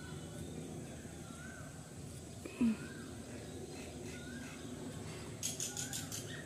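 A bird outside calls over and over in short rising-and-falling chirps, about one a second, over a faint background hiss. A brief louder low sound comes about two and a half seconds in, and a quick run of sharp clicks near the end.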